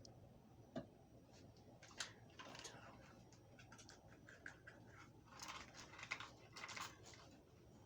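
Faint handling sounds on a rifle: scattered light clicks and taps, then a quick run of small taps and scratchy rubbing about five to seven seconds in.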